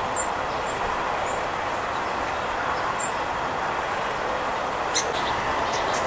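A few short, high bird chirps, about four in the first three seconds, over a steady background noise.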